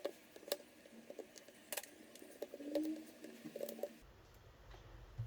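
Faint, scattered light clicks and taps as a laptop battery connector is worked loose from its socket on the motherboard of a Dell XPS 13 9343, with a brief faint squeak near the middle.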